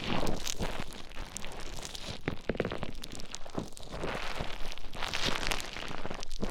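Play Foam being squished and mixed with an ear pick right at the microphone: a continuous crackling, crunching texture of tiny clicks that swells and eases every second or so.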